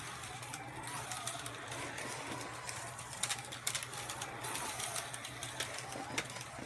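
Slot car electric motors whining, the pitch rising and falling about once a second as the cars speed up and slow down around the track, over a steady low hum and scattered sharp clicks.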